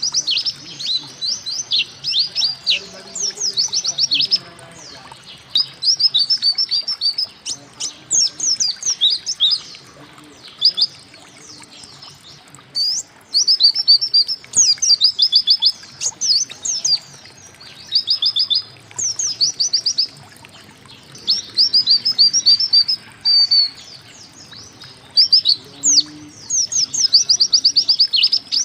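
White-eye (pleci) singing: repeated short bursts of rapid, high chirps and trills, a phrase every second or so, with a brief pause near the middle.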